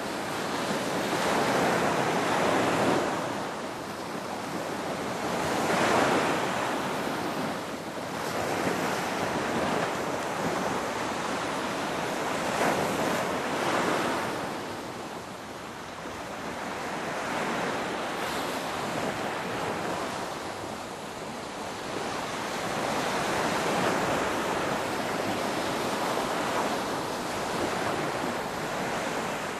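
Ocean surf: waves breaking and washing in, a steady rush that swells and eases every few seconds, louder near the start and about two thirds of the way through, quieter in between.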